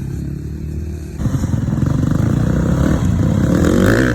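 Yamaha PW50's small two-stroke engine running, growing louder and rougher about a second in and staying loud.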